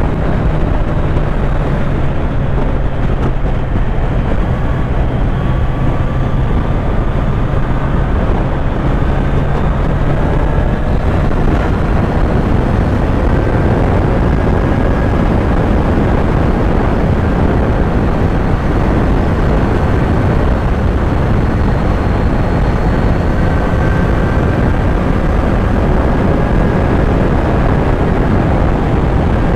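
Kawasaki Z900 inline-four engine running at riding speed under heavy wind rush on the microphone, its note climbing slowly in places. A low steady hum drops away about ten seconds in.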